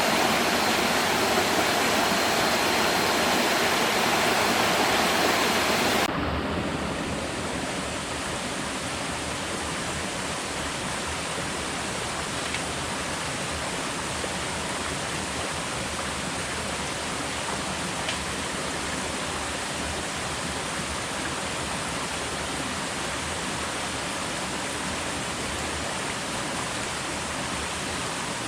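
Steady rushing-water noise, an even hiss with no distinct events. About six seconds in it suddenly becomes quieter and duller, losing its highest part, then carries on unchanged.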